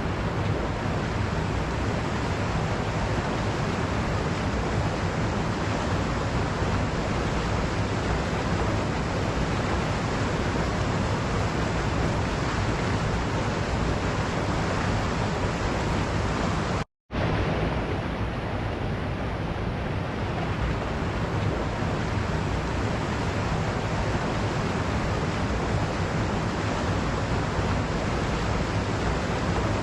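Waterfall: a steady, dense rush of falling water, even throughout, that cuts out completely for an instant a little past halfway.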